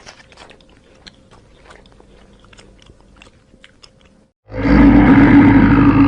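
Faint chewing and crunching clicks, then a loud, deep animal roar starts about four and a half seconds in and carries on.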